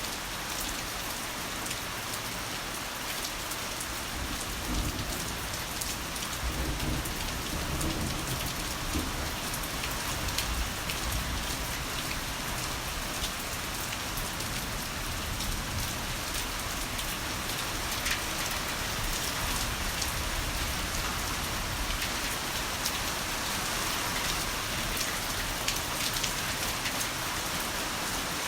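Heavy rain falling steadily, with a low roll of thunder rumbling through from about five to ten seconds in.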